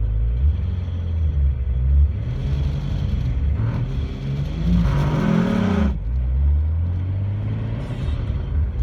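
Engine of a 2JZ-swapped Nissan 300ZX running, with its pitch rising and falling. A grinding noise builds from about two seconds in and stops abruptly around six seconds. The owner suspects a failing throwout or pilot bearing.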